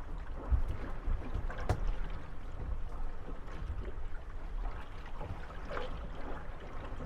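Moored wooden gondolas rocking on small waves: water lapping at the hulls over a steady low rumble, with occasional creaks and knocks as the boats rub against each other, a sharp knock coming about a second and a half in.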